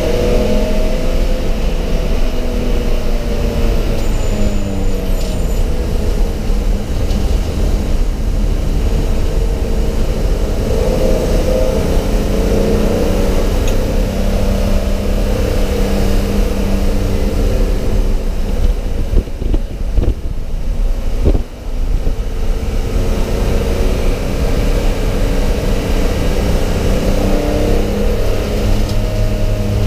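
Race car engine heard from inside its stripped, roll-caged cabin, running hard under load with its pitch rising and falling as it accelerates and lifts off. There is a short dip in the engine sound about two-thirds of the way through.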